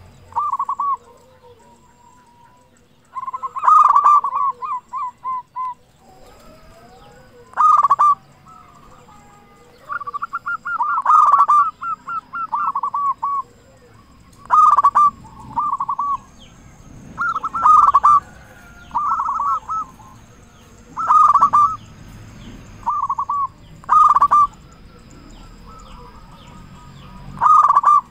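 Local zebra dove (perkutut) cooing loudly: its short, rapid, stuttering song phrase is repeated about every three to four seconds, nine or ten times, each phrase a quick run of notes at much the same pitch.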